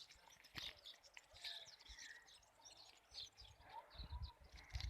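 Faint, rapid chirping of small songbirds, many short high notes overlapping, with a few low bumps near the end.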